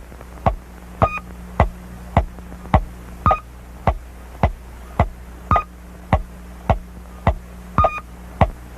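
Cartoon soundtrack effect of steady sharp ticks, a little under two a second, with every fourth tick carrying a short electronic beep, over a steady low hum.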